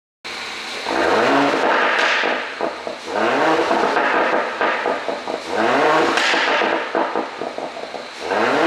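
Porsche Cayenne Coupe's 3.0-litre turbocharged V6 revved in four quick blips, with exhaust pops and crackles between them on each lift-off, the result of an ECU pop-and-crackle tune.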